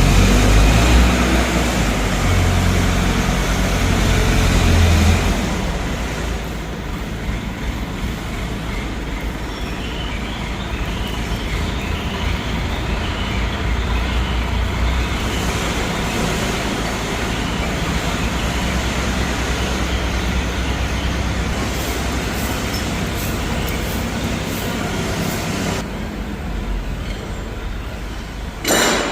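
Steady, loud running of heavy machinery or an engine with a deep rumble, strongest for the first few seconds and then evening out, with one short loud burst near the end.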